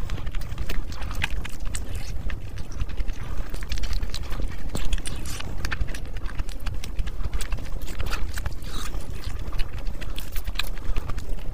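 Close-miked eating sounds: wet chewing and smacking of a mouthful of curry-soaked fried rice, a dense run of irregular sticky clicks, over a steady low rumble.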